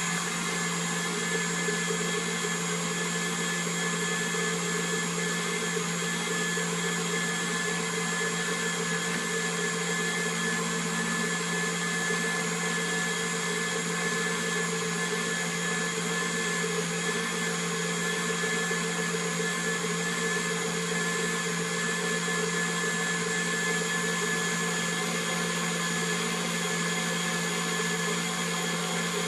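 KitchenAid stand mixer running steadily with its wire whisk attachment, whipping egg yolks into mayonnaise while olive oil is slowly drizzled in. A steady electric motor whine holding several fixed pitches.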